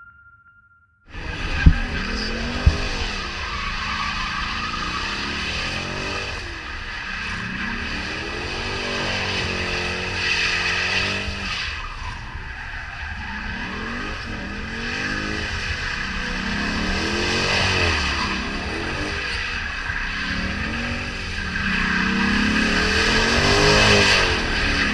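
Dodge Charger engine revving up and down again and again while its tyres spin and squeal on the wet track, as in a burnout or donuts. It starts about a second in, with two sharp pops soon after.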